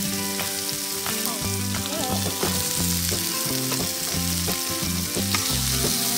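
Spices sizzling in hot oil in a wok as chunks of palm sugar are tipped in and stirred with a metal spatula, which clicks and scrapes against the pan.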